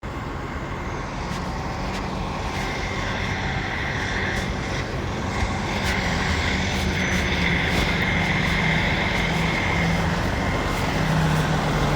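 Steady engine drone with a low hum, slowly growing louder.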